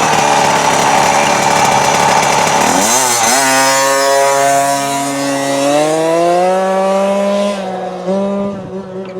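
KTM 50 SX mini dirt bike's two-stroke engine running at high revs. Its pitch dips about three seconds in, then climbs steadily as the bike accelerates flat out on a top-speed run, and the sound drops in level near the end as the bike pulls away.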